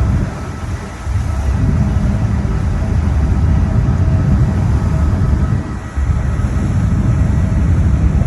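Loud, heavy low rumble of engines, rising and falling, with a faint steady whine above it and brief dips about a second in and near six seconds.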